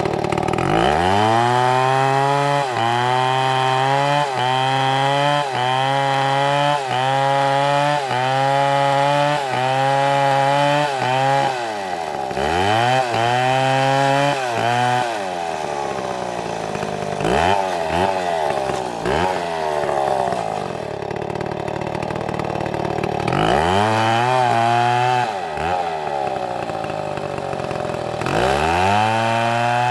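STIHL two-stroke chainsaw at high revs cutting through wood, its pitch dipping about once a second as the chain bites. Midway it drops to idle with a couple of short throttle blips, then revs up and cuts again twice near the end.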